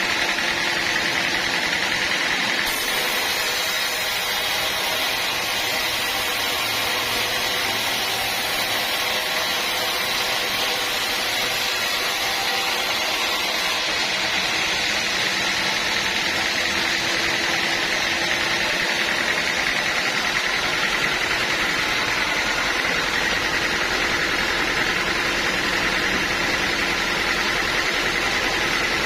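Sawmill running steadily, a constant machine noise with a hiss. An extra high hiss comes in about 3 seconds in and drops away about 14 seconds in.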